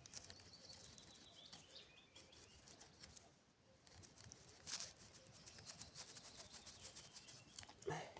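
Faint scraping and small irregular clicks of a knife cutting a notch into a piece of wood for a friction fire-making kit, with a faint bird call in the first couple of seconds.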